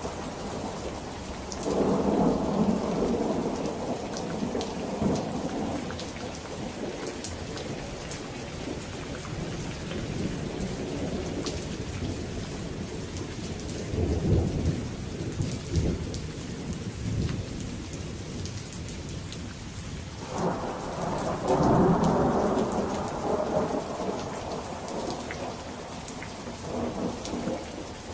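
Steady rain falling, with thunder rumbling three times: about two seconds in, midway through, and again about twenty seconds in.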